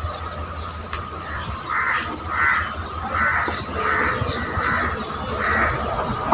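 A bird calling from nearby, six short harsh calls in a steady series about two-thirds of a second apart, starting about two seconds in.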